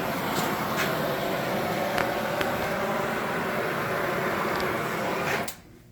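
Steady hissing, humming run of metalworking equipment with a few sharp ticks, cutting off suddenly about five and a half seconds in.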